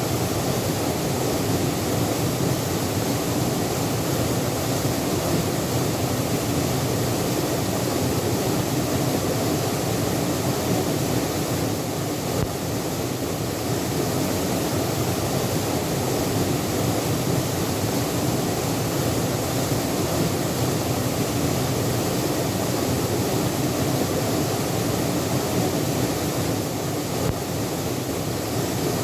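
Waterfall: a steady, loud rush of falling water that stays even throughout.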